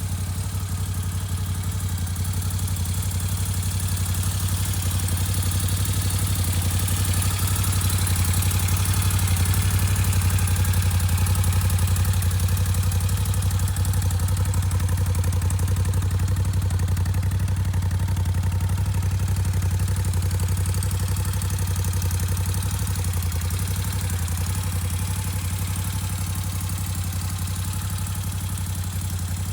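Moto Guzzi V7 III's air-cooled transverse V-twin engine idling steadily, a low, even running sound.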